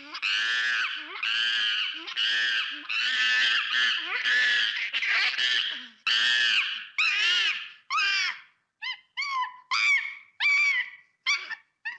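Monkey calling in a rapid run of high calls that each rise and fall in pitch, about two a second. About eight seconds in they change to shorter, clipped calls with brief gaps between them.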